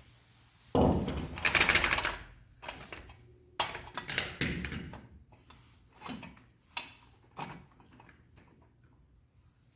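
Mechanical clatter of small hard parts being worked: a loud burst of rapid clicking about a second in, then a series of separate knocks and clicks.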